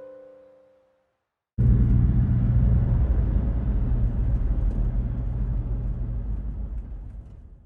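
Car driving: a steady low rumble of engine and road noise that starts abruptly after piano music fades out and eases off near the end.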